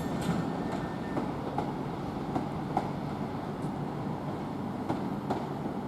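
Northern Class 323 electric multiple unit running slowly into the station, a steady rumble with a few faint clicks from the wheels over the track.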